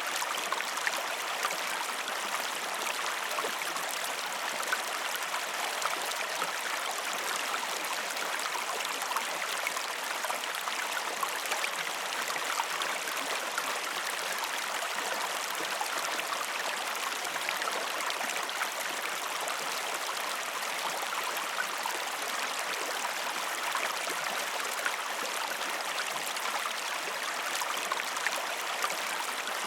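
Waterfall and stream water splashing and rushing steadily, with small splashes scattered through it.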